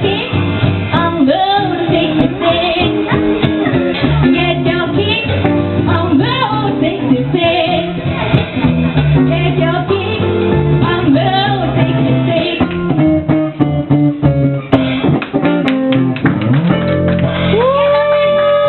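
Live band performing a song, a singer's voice over guitar accompaniment; near the end the voice slides up into a long held note.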